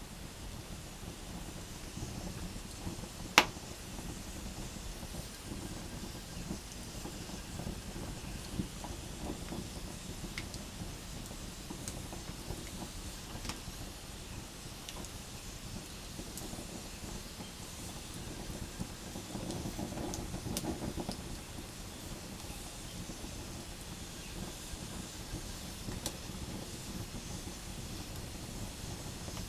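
Wood campfire burning with a steady low rush, scattered small crackles, and one loud sharp pop a little over three seconds in.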